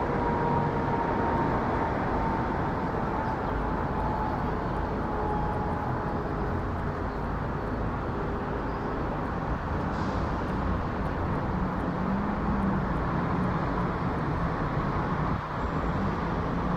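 Boeing 777-300ER's GE90 jet engines, a steady distant roar with a faint whine that slowly sinks in pitch during the first few seconds.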